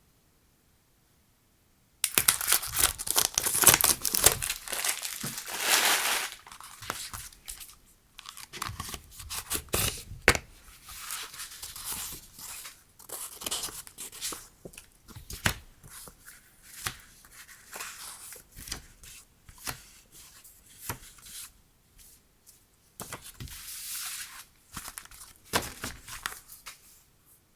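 Packaging being torn open and crinkled by hand. After about two seconds of silence comes a loud stretch of tearing and crackling lasting about four seconds, followed by quieter, intermittent crinkling and rustling.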